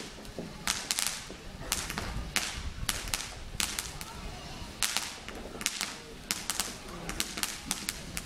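Fireworks going off: an irregular run of sharp cracks and bangs, about two or three a second.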